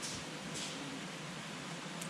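Wood campfire burning with a steady hiss and two sharp crackles, one at the start and another about half a second in.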